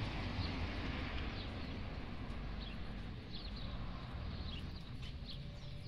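Small birds giving short, high chirps every second or so over a steady low rumble of background noise.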